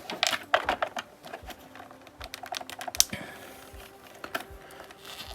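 Irregular small plastic clicks and taps from tiny parts of a collectible action figure being worked loose by hand, with one sharper click about three seconds in.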